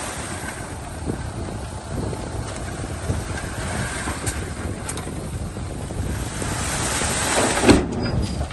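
Heavy earthmoving machinery at work: a rough diesel rumble with scattered knocks, and a louder clunk near the end.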